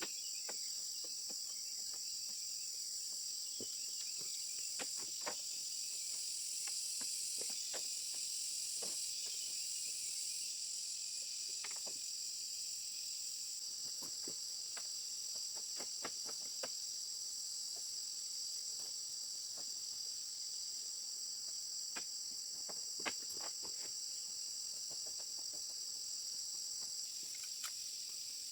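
Steady, high-pitched chorus of insects such as crickets, with faint scattered clicks or taps now and then and one sharper tap near the end.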